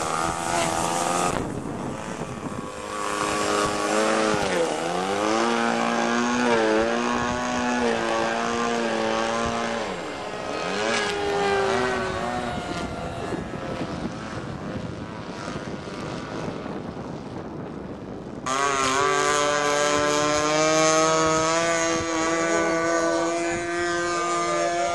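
Engine and propeller of a Hangar 9 J-3 Cub RC floatplane in flight. The pitch keeps rising and falling as it passes and changes throttle, then jumps abruptly to a steadier, higher note about three-quarters of the way through.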